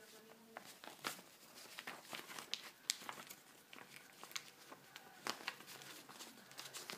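A sheet of paper being folded and creased by hand: irregular crinkles and short sharp rustles.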